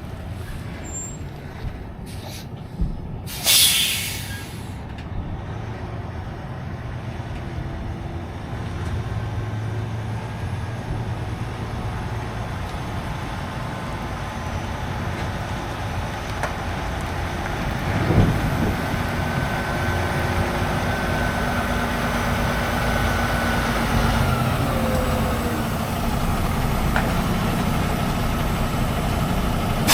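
Tractor-trailer's air brakes letting out one short, loud hiss about three and a half seconds in, then the truck's steady engine and road rumble, growing gradually louder.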